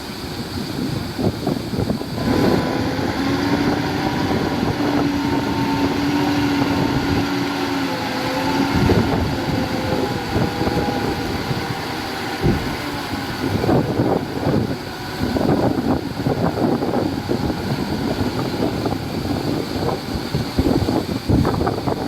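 Diesel engine of heavy earthmoving machinery running. A steady engine hum stands out from about two seconds in until about twelve seconds in. Wind buffets the microphone with irregular rumbling gusts.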